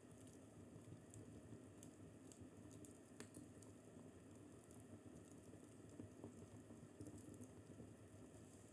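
Wood fire crackling faintly in a fireplace: scattered small pops and snaps over a steady low rumble.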